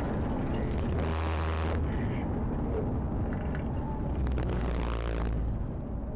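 A moving vehicle's steady low rumble of engine and road noise, with two louder rushes of noise, about a second in and again about four seconds in.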